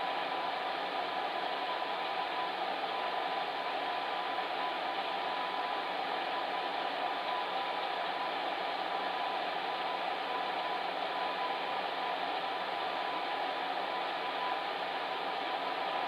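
Electric fan heater running steadily: an even rush of blown air with a faint steady hum.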